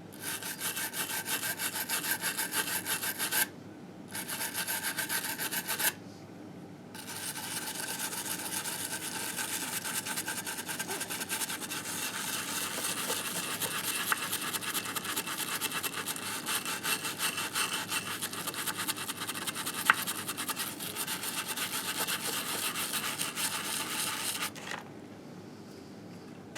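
Rapid back-and-forth scrubbing on a Harley engine case to clean off built-up grime, in three bouts: two short ones with brief pauses, then a long steady run that stops a couple of seconds before the end.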